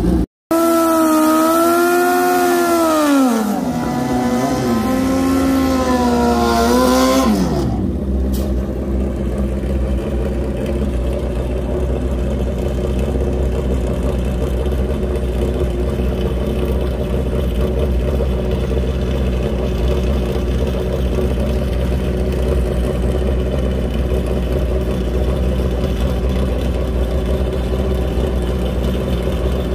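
A car engine held at high revs with a wavering pitch drops away, revs again, and falls back a second time about eight seconds in. It then settles into a steady, rumbling idle.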